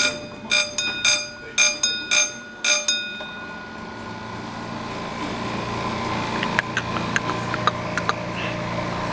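A bell rings in quick repeated strokes, about two or three a second, and stops about three seconds in. Then a miniature zoo train's engine hum grows steadily louder as it approaches, with a few sharp clicks from the wheels and track.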